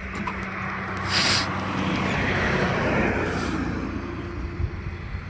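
Diesel tractor engine running through a homemade steel exhaust silencer, with a steady low exhaust note that grows louder for a moment past the middle. A short hiss comes about a second in.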